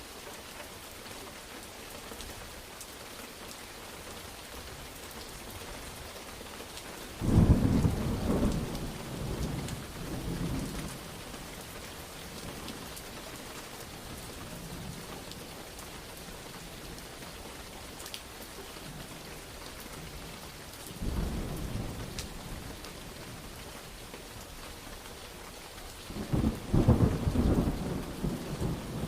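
Steady rain with thunder. A sudden loud clap about seven seconds in rumbles away over several seconds, a shorter, softer rumble comes about two-thirds of the way through, and another loud rumble starts near the end.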